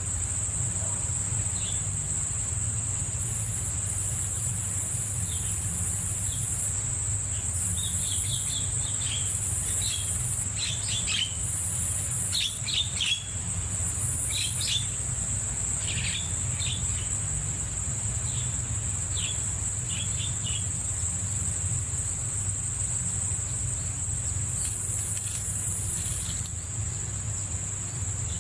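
Insects, likely crickets, trilling in a steady high continuous chorus. Short bird chirps come in quick clusters through the middle, over a low steady hum.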